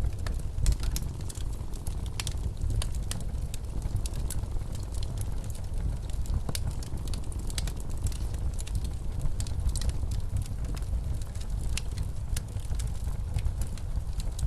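Wood fire crackling with frequent irregular sharp pops over the steady low rumble of blizzard wind.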